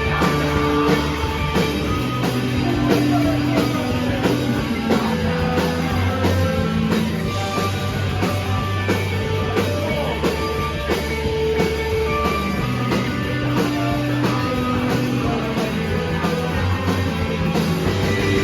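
Rock band playing live: electric guitars, bass and drum kit at full volume with a steady beat.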